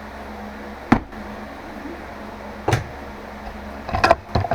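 A few sharp knocks and clunks of things being handled and set down, one about a second in, another near the middle and a quick cluster near the end, over a steady low hum.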